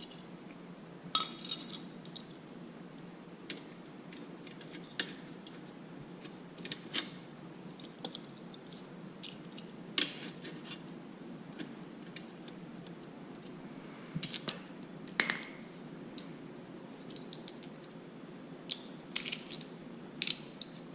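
Scattered metallic clicks and clinks from tools and exhaust hardware being handled while fitting a motorcycle slip-on exhaust, some with a short ring, over a faint steady hum.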